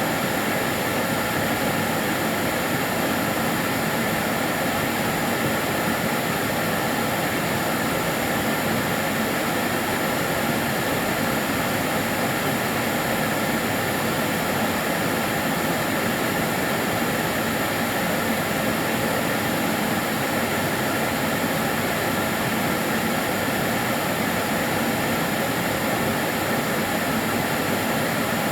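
Karcher DS 6 Premium water-filter vacuum cleaner running steadily: an even motor-and-airflow hiss with a few faint steady tones, not changing.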